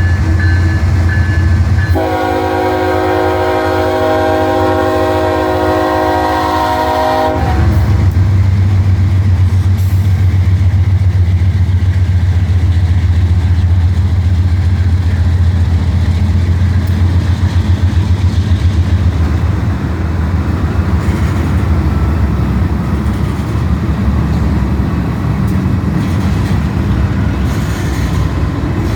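Diesel locomotive moving off: its air horn sounds one long chord blast starting about two seconds in and lasting about five seconds, over the engine's low rumble. Once the horn stops, the engine's heavy pulsing rumble grows louder, then eases off over the last ten seconds.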